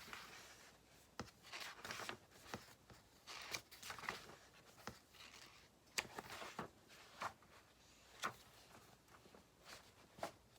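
Faint ballpoint pen writing on paper with paper rustling: irregular short scratching strokes and a few sharp clicks.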